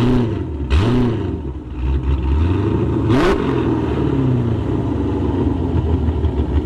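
Cammed 6.4-litre Hemi V8 of a Chrysler 300 SRT8, breathing through long-tube headers and a Hellcat cat-back exhaust, idling and blipped up three quick times: about at the start, just under a second in, and about three seconds in. Each rev rises sharply and falls back to idle.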